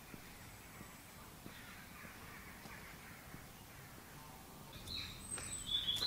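Faint footsteps on a paved path, then a bird calling with several short, high-pitched calls near the end.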